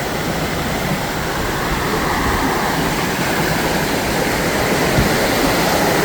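Steady rush of a small river's flowing water, growing slightly louder toward the end.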